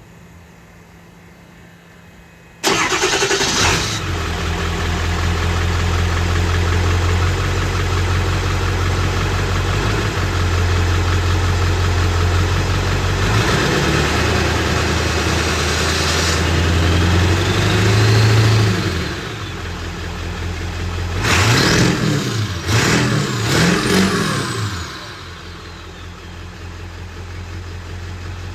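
Ford 7.3 Power Stroke V8 turbo-diesel heard from inside the cab, through a large exhaust tip, coming in suddenly a few seconds in with a deep rumble under load. A rising turbo whistle comes in the middle, then several quick rises and falls before it settles to a lower steady run.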